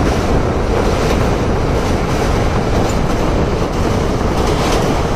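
Express train's coach running at speed over a steel truss bridge, heard from inside the coach: a loud, steady rumble with the clatter of wheels on the rails.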